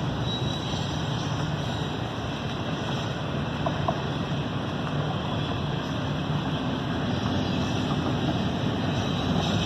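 Steady low rumble of a moving vehicle, without a break.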